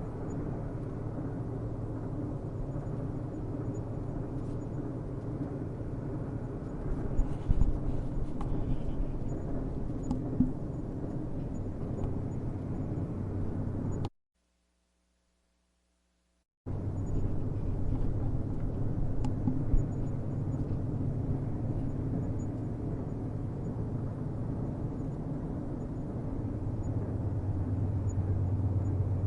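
Low, steady rumble of a distant train, with a few short knocks about seven to ten seconds in. The sound cuts out to dead silence for about two and a half seconds midway, then the rumble resumes and grows slightly louder toward the end.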